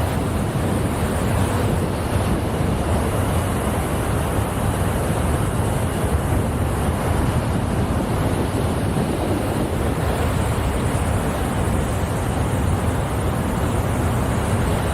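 Water falling down a dam's artificial waterfall: a steady, loud rushing noise with no let-up.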